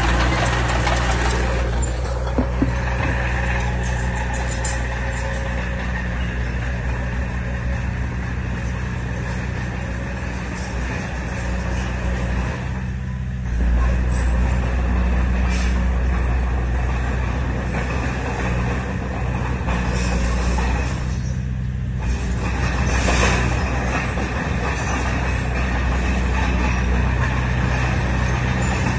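Heavy diesel earthmoving engine running steadily under load, a deep drone with clattering on top. A couple of sharp clicks come about two and a half seconds in, and the engine note swells a few times.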